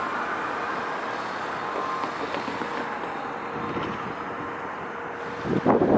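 Road traffic: the steady rumble of passing vehicles, with a brief louder burst about five and a half seconds in.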